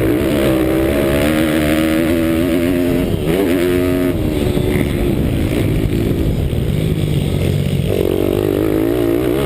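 Daytona Anima 190 cc single-cylinder pitbike engine at racing throttle, recorded onboard: its pitch climbs and falls again and again as it accelerates, shifts and backs off.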